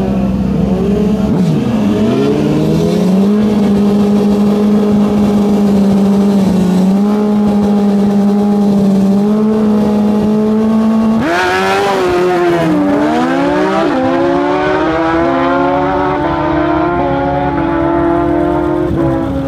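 Drag-racing sportbike engines held at steady high revs on the start line, then launching hard about eleven seconds in. The engine note climbs in steps, dropping back at each upshift as the bikes pull away down the strip.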